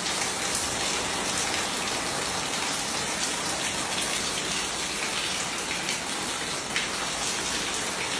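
Water rushing and spraying steadily from a burst pipe, a constant even hiss with no break.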